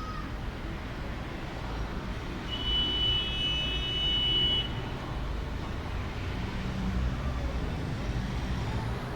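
Steady low rumble of distant road traffic. About two and a half seconds in, a high steady whine joins it for about two seconds, then stops.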